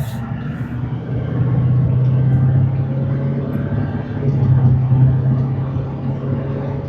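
A GMC Sierra 2500HD's 6.6 Duramax V8 turbodiesel pulls steadily under way, heard from inside the cab with tyre and road noise. The engine drone grows a little louder about a second and a half in.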